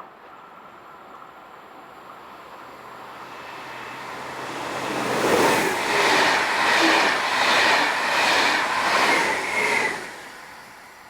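A vehicle passing close by: the sound swells over a few seconds, stays loud for about five seconds with a regular pulse a little faster than once a second, then dies away about ten seconds in.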